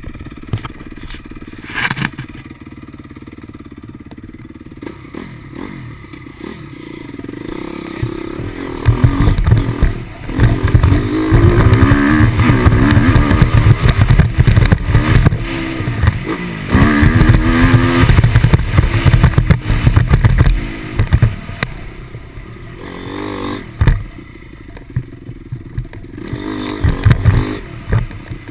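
Motocross motorcycle engine revving up and down in pitch as it rides the track: quieter at first, loud from about nine seconds in until about twenty-one seconds, then easing off, with a sharp knock, before picking up again near the end.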